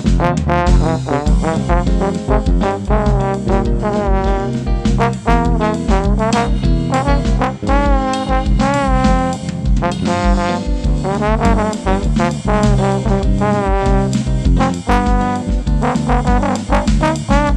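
Live instrumental band music: a trombone plays a sliding, bending melody over a bass line and a steady drum beat.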